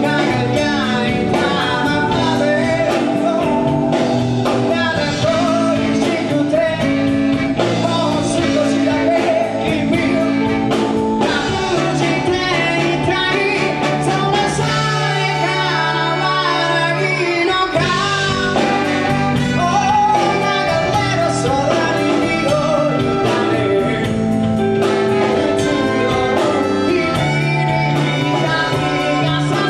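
Live band playing a song with a lead vocalist singing over guitar, bass and drums. About halfway through, the drums and bass drop out for a couple of seconds, then come back in.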